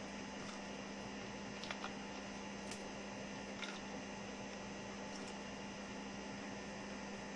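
A steady low electrical hum over faint hiss, with a few faint light clicks.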